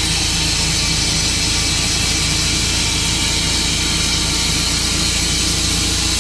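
Tru-Cut portable bandsaw mill's engine running steadily, with a constant hiss over the engine note.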